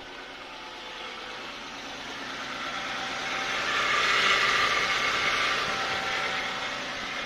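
1992 Lexus LS400's 1UZ-FE V8 engine idling steadily and running smoothly while it warms up. It grows louder to a peak about four seconds in, then eases back.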